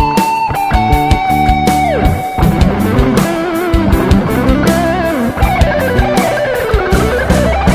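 Instrumental break in a rock song: an electric guitar plays a lead melody of long held notes that bend and glide in pitch, over a steady drum beat and bass.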